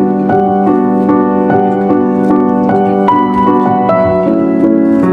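Background piano music: a gentle melody of evenly paced notes, a new one about every half second, over a held low note.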